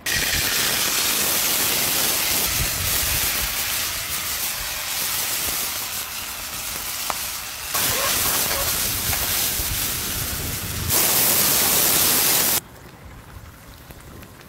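A pork knuckle sizzling loudly as it sears in a hot, smoking pan over a wood fire. The sizzle starts suddenly, changes in strength a few times, is loudest just before it cuts off near the end, and leaves a much quieter stretch after.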